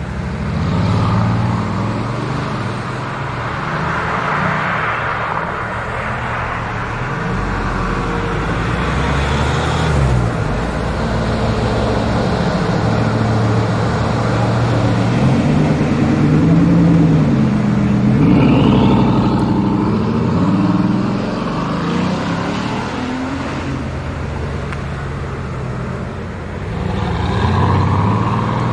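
Car engines running and revving, the engine pitch rising and falling repeatedly, with tyre and road noise.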